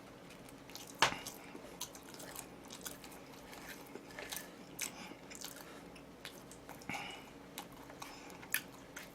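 Close-miked chewing of food: soft, irregular mouth clicks and smacks, with a sharper click about a second in.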